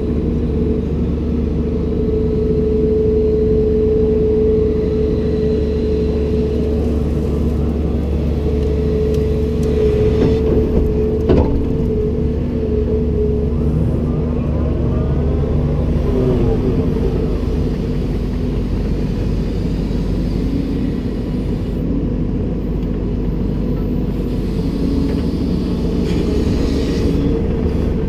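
Komatsu PC290-10 excavator's diesel engine running steadily with a steady pitched whine over it. A single sharp knock comes a little before halfway, and the engine note shifts lower just past halfway.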